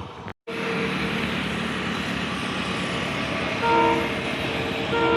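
Indian Railways locomotive train running past with a steady rumble, after a brief dropout to silence just after the start. Its horn gives a short toot about three and a half seconds in, then a longer blast near the end.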